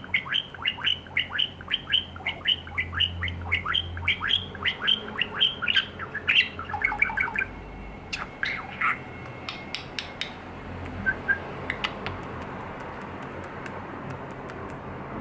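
Male budgerigar chattering: a fast run of short chirps, each falling in pitch, about four or five a second. After about seven seconds the calls thin out into scattered squawks and a few clicks, and then stop apart from two soft chirps.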